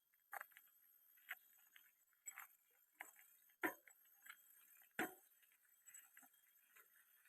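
Faint, irregular clicks and taps over near silence, with three louder knocks among them: one just after the start, one a little past the middle, and one about five seconds in.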